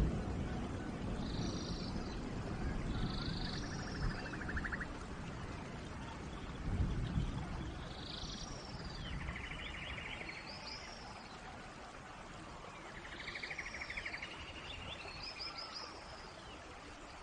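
Forest rain falling steadily while birds call over it: short high chirps and repeated buzzy trills. There is a low rumble near the start and another about seven seconds in.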